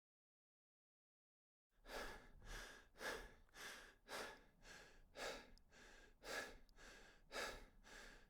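Rhythmic breathing, about two breaths a second, starting after a moment of dead silence.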